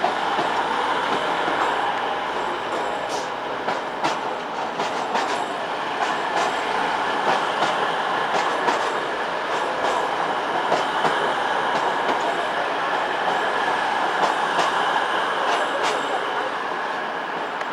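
Class 222 Meridian diesel multiple unit running into the platform: a steady train noise with scattered sharp clicks.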